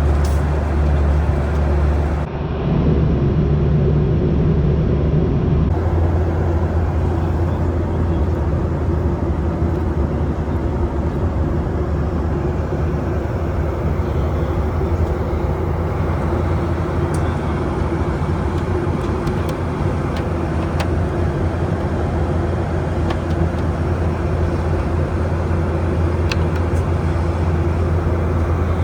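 Steady cabin drone of a Boeing 737-800 in flight: its CFM56-7B engines and the airflow past the fuselage make a deep, even hum. The drone shifts briefly between about two and six seconds in.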